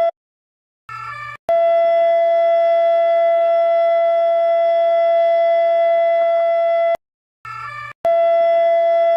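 Electronic alarm tone: a loud, steady pitched tone held for several seconds. Twice, about a second in and near the end, it breaks off briefly and a short, buzzier half-second tone sounds before the steady tone resumes.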